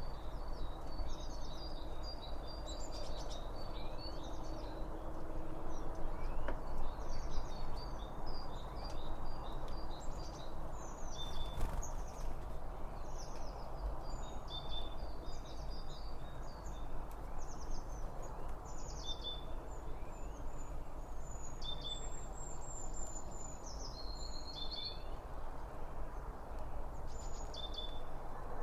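Several songbirds chirping and trilling in short, repeated phrases over a steady, even background rush.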